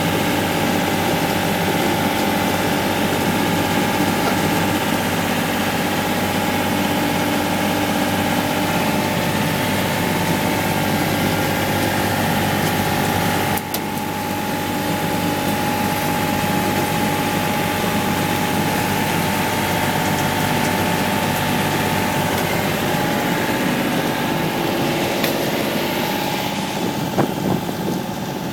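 An engine running steadily at a constant pitch. It breaks briefly about halfway through, then runs on slightly quieter.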